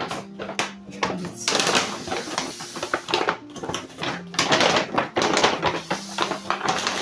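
Repeated rustling and knocking of objects being handled, over held notes of soft background music.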